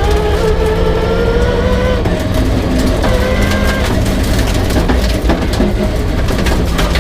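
Peugeot 306 rally car's engine running hard under load, its note shifting in pitch a couple of times, with many sharp clicks and rattles over it.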